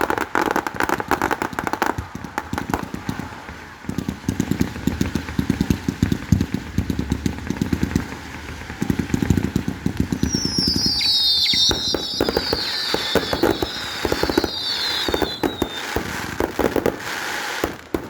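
Fireworks display: rapid crackling and popping bangs in quick succession, with several high falling whistles about ten seconds in.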